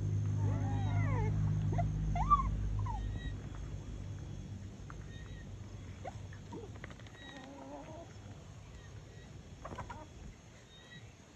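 Free-range village chickens calling while they feed: short rising-and-falling calls, most of them in the first three seconds, with a few more later. A low steady hum sits under the first few seconds and fades away.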